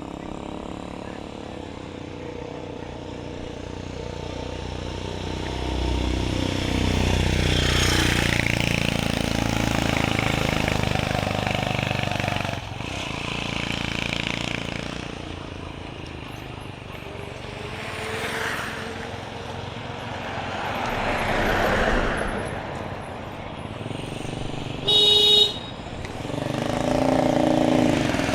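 Street traffic: motor vehicles passing one after another, engines swelling and fading, with one short horn toot near the end.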